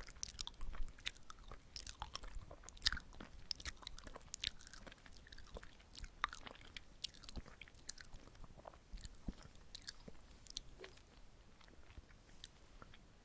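Close-miked chewing of soft, sticky glutinous rice cake with red bean filling: a run of small wet, sticky mouth clicks and smacks, thinning out toward the end.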